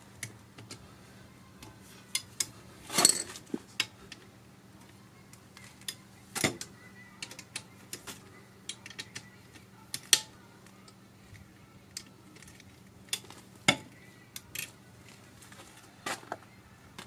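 Metal hand tools and engine parts clinking and clattering: separate sharp clinks every second or two, the loudest a short clatter about three seconds in. A low steady hum sits underneath.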